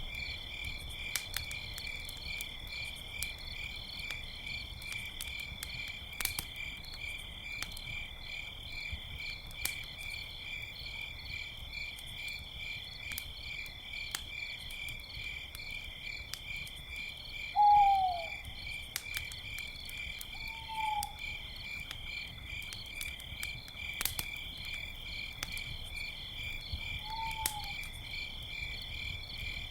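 Crickets chirping in a steady, pulsing chorus, with an owl giving three short falling hoots, the first a little past halfway the loudest. A campfire crackles underneath with scattered sharp pops.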